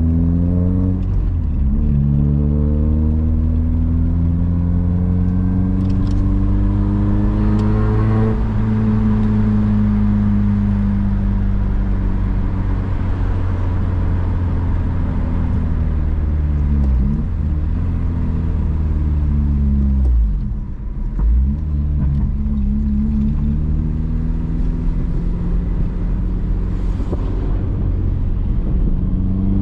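Honda Civic Si engine pulling through the gears, its pitch climbing under acceleration and dropping at each gear change: a shift about a second in, a long climb to about eight seconds in, then easing off. There is a brief dip around two-thirds through, and it revs up again near the end.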